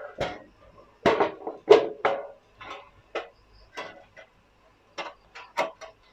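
Irregular metallic clanks and knocks of a metal equipment cabinet being handled and its cover opened, about a dozen separate strikes.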